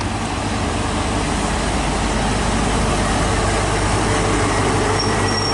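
CrossCountry HST power car 43378 arriving in the station, its MTU diesel engine running with a steady drone that grows slightly louder as it draws in. A thin high squeal, likely from the brakes, starts near the end.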